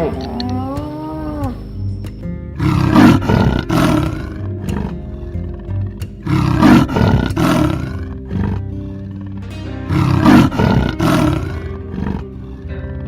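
A big cat roaring: three loud roars about three and a half seconds apart, over background music.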